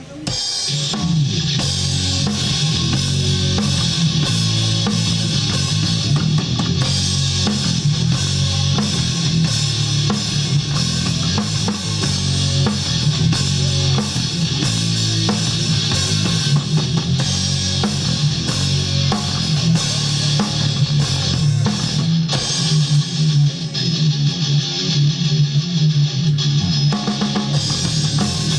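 Rock band playing live with drum kit, guitar and bass, kicking in suddenly right at the start and carrying on loud and steady.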